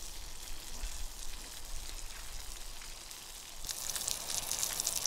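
Sausages and bacon sizzling in a pan over a campfire, a steady crackling hiss that grows louder about three and a half seconds in.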